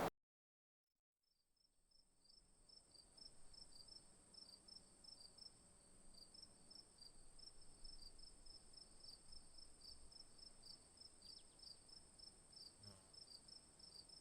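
Faint insect chorus: one insect trilling on a steady high note while another chirps rhythmically, about three chirps a second.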